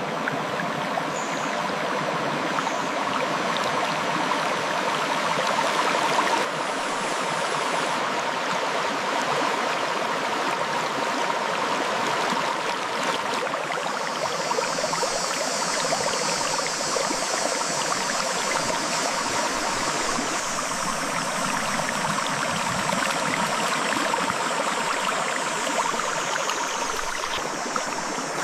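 Clear river flowing over rocks: a steady rush of water with splashing and gurgling. A higher hiss joins about halfway through.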